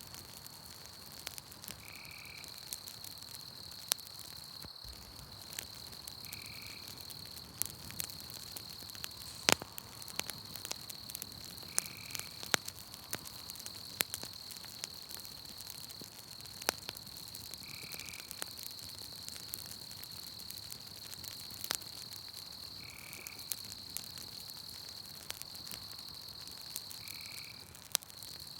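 Campfire crackling with scattered sharp pops, over a steady high trill of night insects. A short call repeats six times, every four to six seconds.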